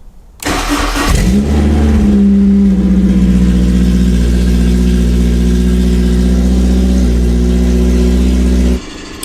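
Honda S2000's 2.0-litre F20C four-cylinder engine starting up about half a second in and then running steadily with no exhaust system fitted, until the sound cuts off suddenly near the end.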